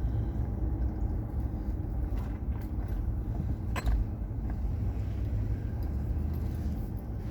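Steady low rumble of a vehicle being driven, with a single sharp click a little under halfway through.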